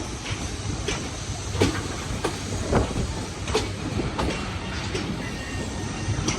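Passenger train rolling slowly into a station, its wheels clacking over rail joints about once a second, over a steady rumble. A faint thin squeal of wheels or brakes comes in near the end.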